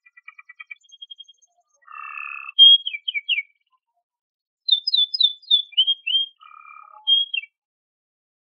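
Domestic canary singing. A quick run of trilled notes, a buzzy note, then phrases of sharp down-slurred whistles. There is a short pause in the middle, and the song stops about seven and a half seconds in.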